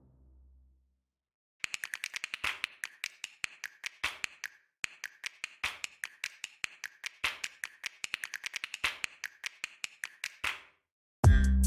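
A rapid, uneven run of short sharp clicks, several a second with brief pauses, starting about one and a half seconds in and stopping shortly before the end.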